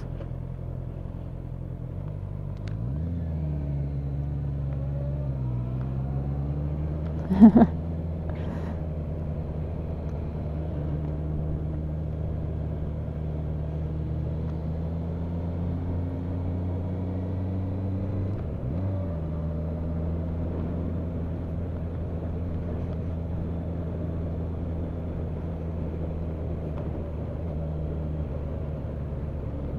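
Motorcycle engine running on the move, with road and wind noise. Its pitch changes near three seconds in and shifts again about eighteen seconds in as the revs change. A sharp, brief knock about seven seconds in is the loudest sound.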